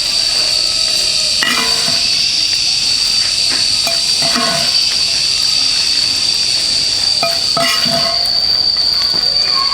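Insects, such as crickets or cicadas, droning steadily on one high, unbroken pitch, with a few brief faint sounds over it.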